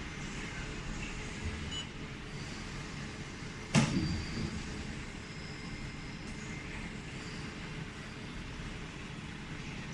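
Jewelry laser welding machine running with a steady hum, and one sharp snap about four seconds in.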